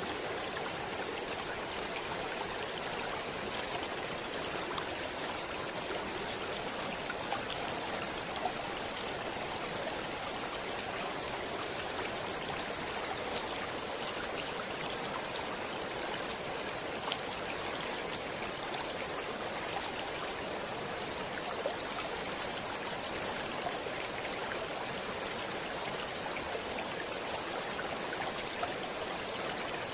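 A stream of water flowing with a steady rushing sound, with occasional small splashes.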